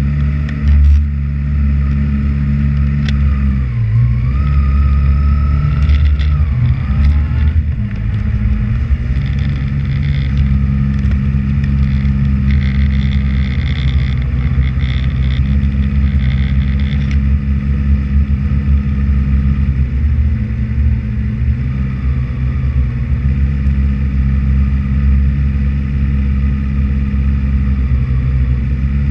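Honda CBR600RR's inline-four engine running steadily at low revs as the sportbike rolls slowly, with a higher tone that dips and rises a few seconds in.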